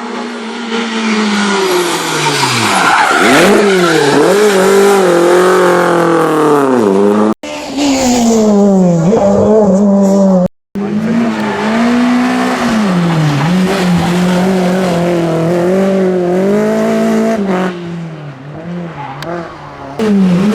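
Renault Clio rally car's four-cylinder engine revving hard as it drives a stage, pitch climbing and dropping again and again through gear changes and lifts. The sound cuts off abruptly twice, about seven and ten seconds in.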